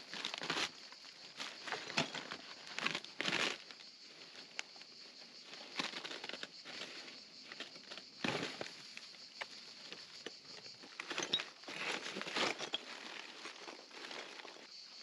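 Brambles and dry undergrowth rustling, crackling and tearing as they are pulled out by gloved hands, in irregular bursts.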